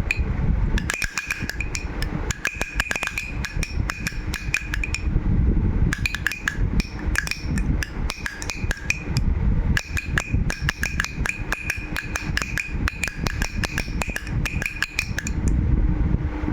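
A baby's toy rattle shaken in runs: a rapid clatter of clicks with a ringing tone, broken by short pauses and stopping near the end.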